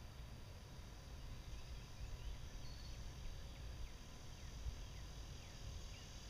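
Faint outdoor ambience: a low, uneven rumble with a bird calling over it, a run of short falling notes about two a second that starts about two seconds in.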